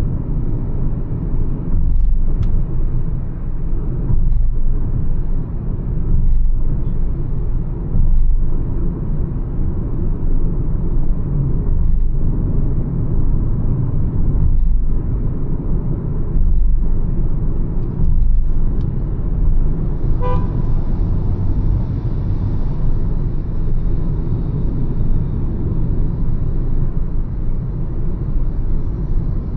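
Mahindra XUV 300 cruising at highway speed: a steady low rumble of tyre, engine and wind noise. About twenty seconds in, a short horn beep sounds over it.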